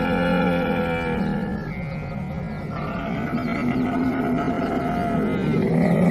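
A camel vocalizing in long, rough, pitched calls over a low rumble, with the pitch pattern changing about two seconds in.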